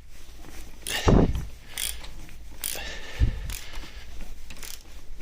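Irregular metallic clicks and knocks from tools and engine parts being handled, with one heavier knock about a second in and another about three seconds in.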